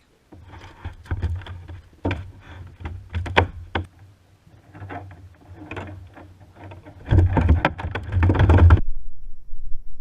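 Irregular knocks, clatters and rubbing on and around a kayak, over a low rumble. They grow louder and busier about seven seconds in, then stop.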